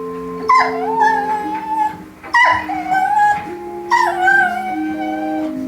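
Golden retriever making three howling whines about a second and a half apart, each starting high, dropping quickly and then holding. Background music with sustained notes plays underneath.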